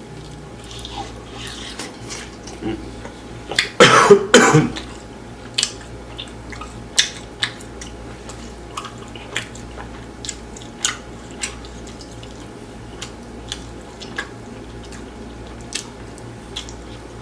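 Close-miked chewing and wet mouth clicks of a man eating grilled chicken, with a loud two-part burst about four seconds in.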